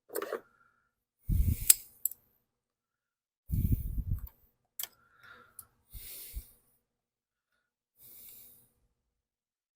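Scattered clicks, rustles and a few short low thumps of hands and tools working on a mower engine while parts around the carburetor are reconnected.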